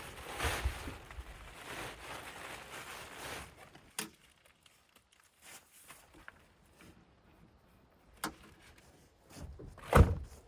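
Rustling handling noise for the first few seconds, then a sharp knock, a second knock, and a loud heavy thunk near the end, like a door or tailgate being shut.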